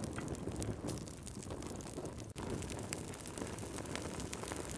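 Wood fire in a fireplace crackling, with scattered sharp pops and snaps over a steady low hiss and rumble.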